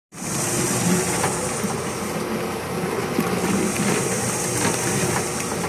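Commercial ice cream machine running: a steady motor and churning noise with a few faint clicks.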